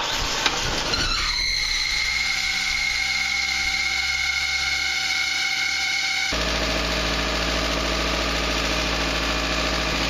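1995 Mazda 626 2.0-litre four-cylinder engine running just after start-up, with a steady high-pitched squeal from the A/C compressor pulley. About six seconds in, the squeal cuts off abruptly, leaving the engine idling evenly.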